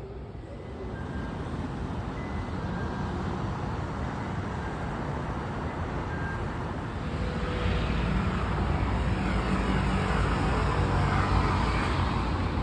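Low rumble of a passing vehicle, growing louder about seven seconds in.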